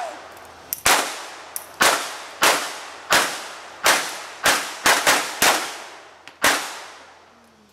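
Gunfire from blank-firing guns in a staged Wild West shootout: about a dozen sharp shots, unevenly spaced and each followed by a short echo, some in quick pairs.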